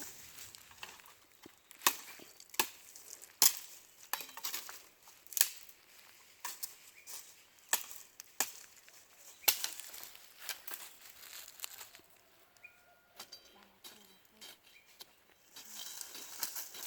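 Dry firewood sticks and twigs snapping and crunching as they are broken and gathered: a run of sharp cracks at irregular intervals, dying down to a few faint ones in the last few seconds.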